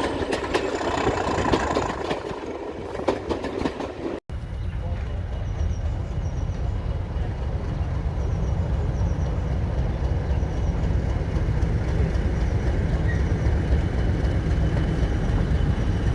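Diesel train sounds: a noisy rattle with scattered clicks for about four seconds, then, after an abrupt cut, a steady low rumble.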